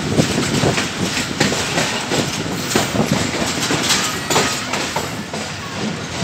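Millat Express passenger coach running along the track, heard from its open doorway: steady rumble with uneven clattering knocks of the wheels over the rails.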